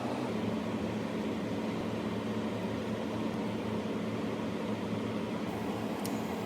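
Steady mechanical hum: a low, even drone with an even hiss over it, and a single click about six seconds in.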